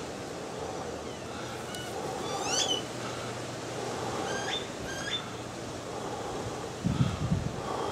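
A small bird chirping outdoors: one quick call about two and a half seconds in and two more near the middle, over a steady hiss of wind. A brief low rumble comes near the end.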